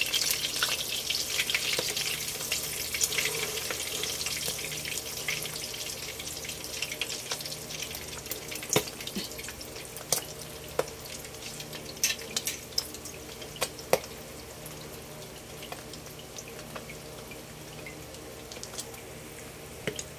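Tuna-and-egg patties sizzling in hot oil in a nonstick pan. The crackle is loudest at the start, as a patty is turned, and settles to a steadier, quieter hiss. A few sharp clicks from the spatula against the pan come in the middle.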